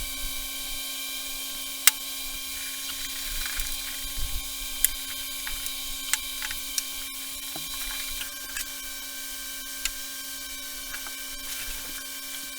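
Steady electrical hum over a high hiss, with scattered sharp clicks and taps at irregular intervals, as of hand tools and parts being handled at a workbench.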